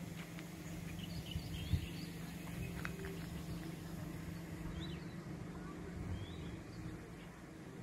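Small birds chirping in short, scattered calls over a low steady outdoor rumble.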